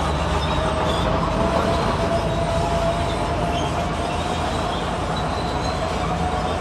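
Diesel heavy construction machinery working: a steady, dense engine rumble with a thin squealing tone held over it throughout.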